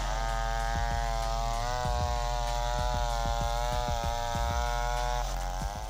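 Big chainsaw running at high revs as it cuts through a large log, its pitch dipping and recovering at the start and again near the end.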